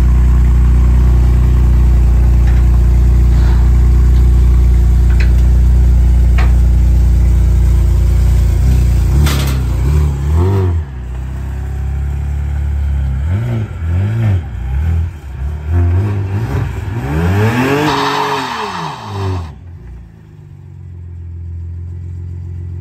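A car engine running steadily, then revved up and down about five times. The last rev is the longest and loudest, and the sound cuts off abruptly near the end.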